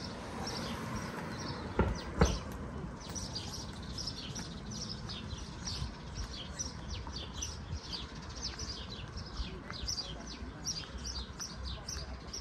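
Small birds chirping busily: many short, high chirps a second, repeated throughout. Two sharp knocks come about two seconds in.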